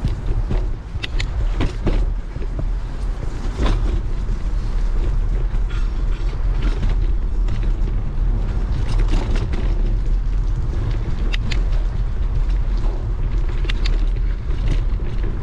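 Riding a bicycle in wind: a steady low rumble of wind on the microphone and rolling tyres, with scattered sharp clicks and rattles from the bike.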